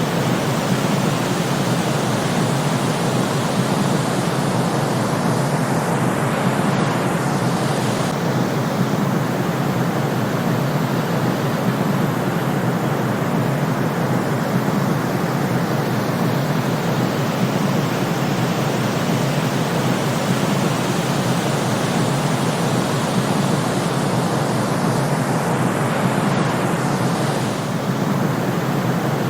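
Steady white-noise sleep track: an even, unbroken rushing hiss, fuller in the lower middle than a pure hiss, with no deep bass.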